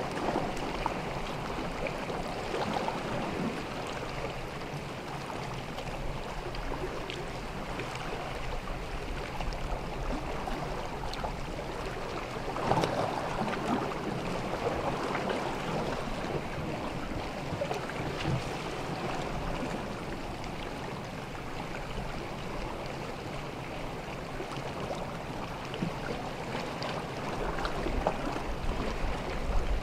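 Small sea waves washing and lapping on a beach in a steady wash, swelling briefly now and then.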